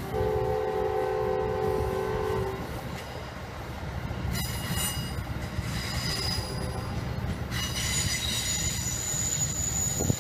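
Amtrak passenger train rolling past with a steady low rumble. A multi-note train horn sounds for about two and a half seconds at the start. High-pitched wheel squeal comes in about four seconds in and keeps going.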